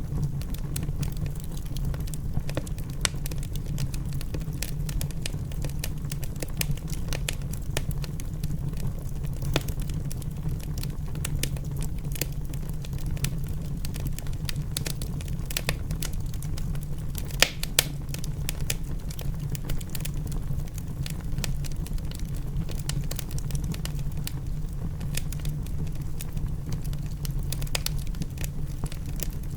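Wood fire crackling in a fireplace: dense, irregular sharp pops and snaps over a steady low rumble. A couple of louder pops come a little past the middle.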